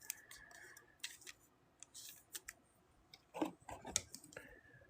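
Faint handling of trading cards and card packs: scattered light clicks and rustles, with a quick run of sharper ticks about three and a half seconds in.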